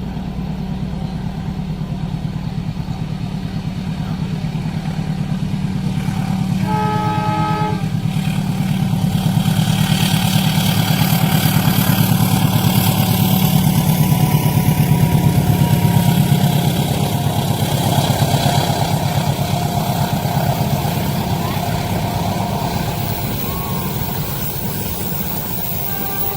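A train passing through a level crossing: a low, steady rumble swells to its loudest around the middle and then fades, with a hiss of wheels on rail and a faint high whine. A horn sounds once, for about a second, around seven seconds in.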